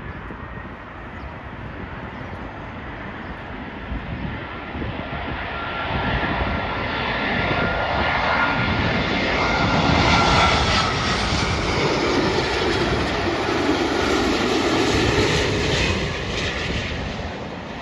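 Airbus A350 airliner on landing approach, its Rolls-Royce Trent XWB turbofans growing louder as it comes close, with a thin whine that slides down in pitch as it passes. The jet noise then starts to fade near the end.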